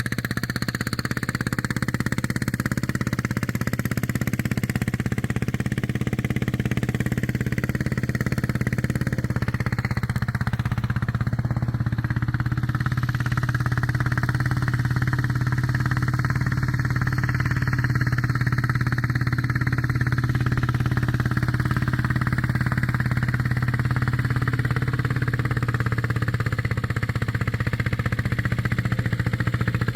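Homemade mini tractor's small engine running steadily at an even, unchanging pitch, working to pull a harrow.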